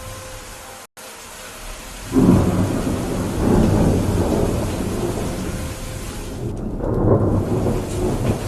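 Rain hiss, cut off by a short gap of silence about a second in, then a thunderclap breaks in about two seconds in and rolls on as a low rumble over heavy rain, swelling again near the end.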